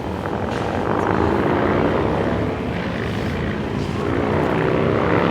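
An engine running steadily, rising in pitch near the end of the sound.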